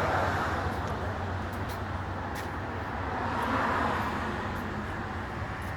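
Road traffic noise: passing vehicles swell up at the start and again about two-thirds of the way through, over a steady low hum.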